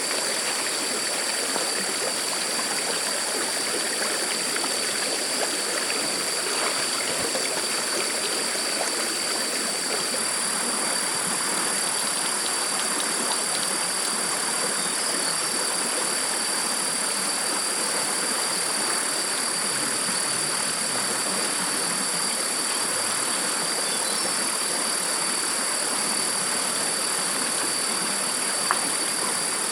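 Stream water flowing in a steady, even rush, with a thin, steady high-pitched tone running above it.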